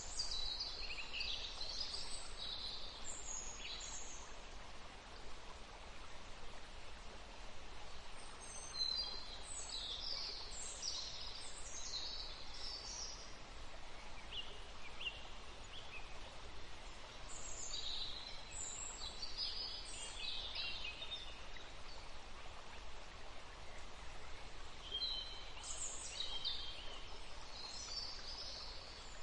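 A songbird singing short, bright, high-pitched phrases in bursts about every eight seconds, over a steady hiss of running water.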